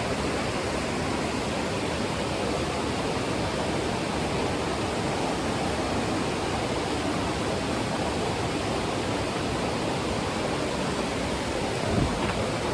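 Steady rushing noise, even and unbroken, with a single brief thump near the end.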